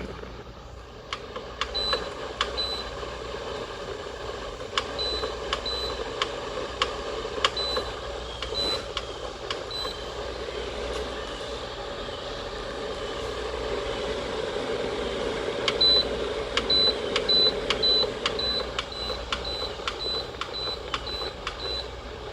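Keystone evaporative air cooler's control panel giving a short high beep with each press of its timer button, scattered at first, then about two a second near the end as the setting is stepped through. The cooler's fan runs steadily underneath.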